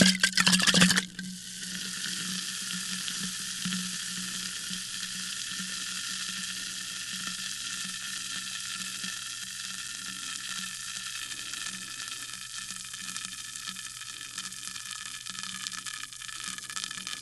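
Sparkling water fizzing: a loud rush of bubbling in the first second, then a steady fizz of tiny bubbles crackling and popping.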